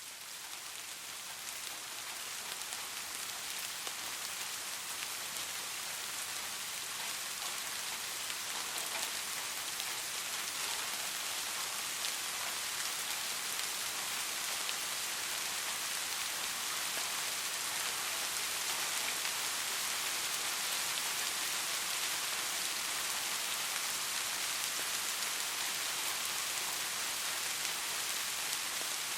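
Steady rainfall with many fine drop patters on a surface, fading up over the first few seconds and then even.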